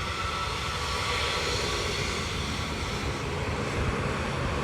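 Jet airliner's engines running as it passes, a steady rushing noise with a faint whine that fades in the first second or so.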